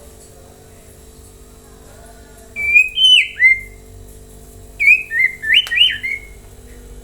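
A murai batu (white-rumped shama) singing two short phrases of clear, gliding whistled notes, the first a little before halfway and the second shortly after, with a steady electrical hum underneath.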